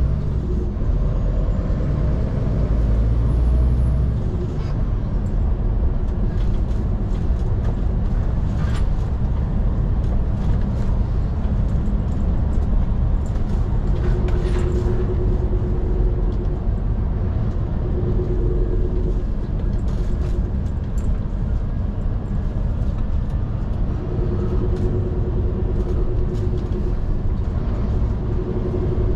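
Scania P360 XT skip truck on the move: a steady heavy engine and road rumble, with a humming tone that comes and goes twice in the second half and scattered knocks and rattles throughout.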